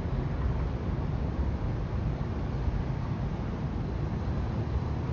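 Steady low outdoor rumble with no distinct events, the kind of noise heard when filming steam clouds outdoors in freezing weather.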